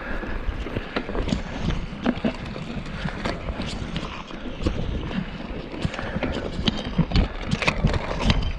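Irregular clattering knocks, several a second and uneven in strength, over a steady low rumble, as of movement over a stony trail.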